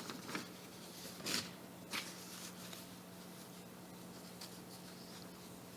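Faint rustling of paper, a few short soft swishes in the first two seconds, over a low steady hum.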